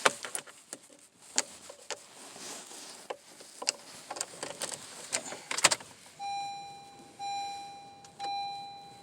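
Car key jangling and clicking in the hand and being fitted into the ignition of a 2020 Honda CR-V. From about six seconds in, the dashboard warning chime dings about once a second, each ding fading away.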